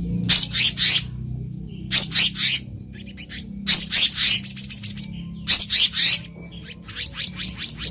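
Black-naped monarch calling: five short bursts of rapid, sharp, high notes, repeated about every second and a half to two seconds, over a faint steady low hum.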